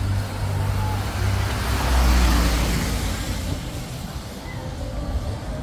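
A car passing on a wet street: its engine hum and tyre hiss swell to a peak about two seconds in, then fade away.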